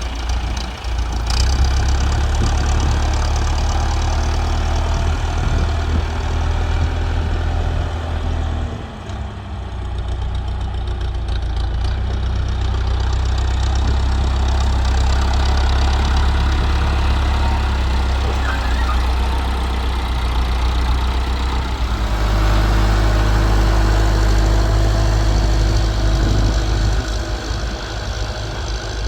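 Tractor engine running steadily, easing off briefly about a third of the way in and changing its note, a little louder, later on.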